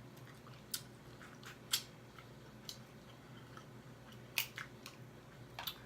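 Close-miked eating of crab: quiet chewing broken by about half a dozen short sharp clicks and crunches, the loudest near the middle.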